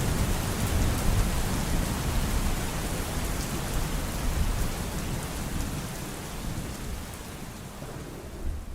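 Steady rain with a low rumble of thunder underneath, gradually fading out.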